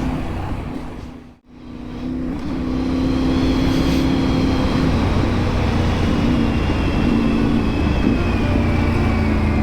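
Triumph 900 motorcycle engine running steadily while riding, its replacement second-hand engine under test. The sound drops out sharply for a moment about a second and a half in, then the engine sound returns.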